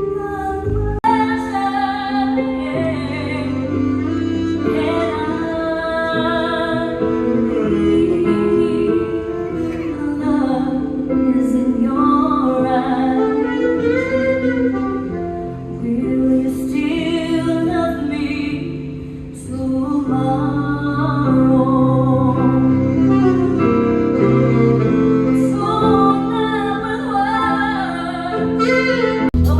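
A woman singing with instrumental backing, a stage-show song in a theatre.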